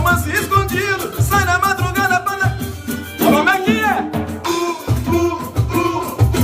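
A live Brazilian band playing with cavaquinho, a steady low drum beat and a singing voice over the top. The low drum drops out for a moment a little past the middle, then comes back.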